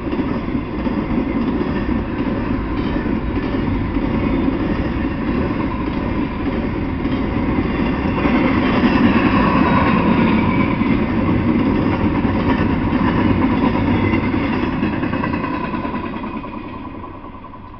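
Freight train of intermodal flatcars rolling past, a steady rumble and clatter of wheels on the rails. It fades away near the end as the last car goes by.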